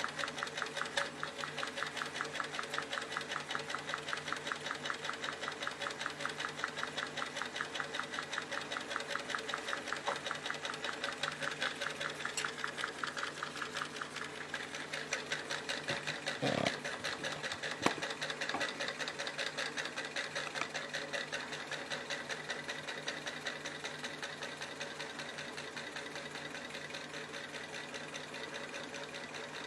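Small homemade thermal engine running with a fast, even clattering tick, with two sharper knocks about halfway through; the rhythm grows a little fainter near the end.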